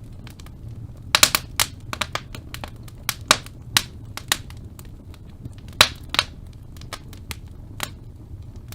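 Wood fire crackling in a fireplace: irregular sharp pops and snaps, a cluster of loud ones a little over a second in and another near six seconds, over a steady low rumble of the burning.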